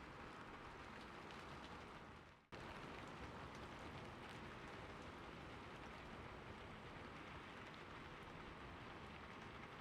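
Steady rain falling, a soft even hiss of drops. About two and a half seconds in, it fades away briefly and then cuts back in abruptly.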